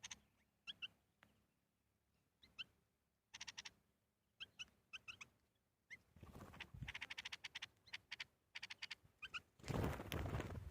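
Birds calling with many short chirps and quick trills, over a faint background. Near the end comes a loud, rough noise of about a second, the loudest sound here.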